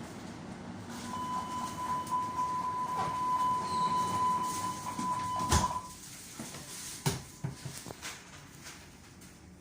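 Door-closing warning tone of a Hamburg U-Bahn DT4 train: one steady high tone lasting about four and a half seconds, cut off as the sliding doors shut with a loud knock. A few lighter knocks and clicks follow.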